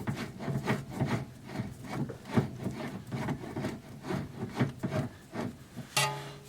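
Rubbing and scraping strokes, about three a second, from the new outer tie rod end being worked on the car's tie rod threads.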